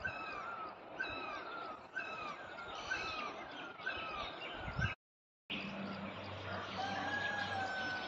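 A bird calling over and over, short falling notes about once a second. After a brief break, a long, steady whistle-like tone sounds over a low hum.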